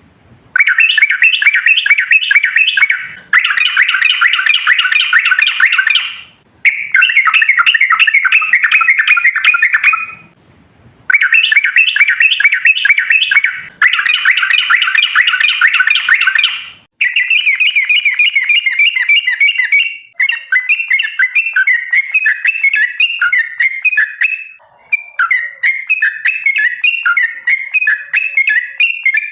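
Yellow-vented bulbul (trucukan) singing loud, long rapid bubbling song phrases of about three seconds each, with short breaks between them. About halfway through, the song turns to a quicker, wavering chatter with thin high notes over it.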